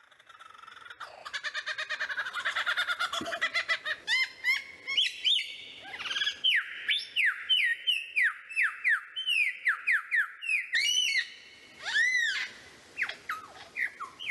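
Birds calling: a rapid chattering trill that builds over the first few seconds, then a long series of loud, repeated, falling whistled notes.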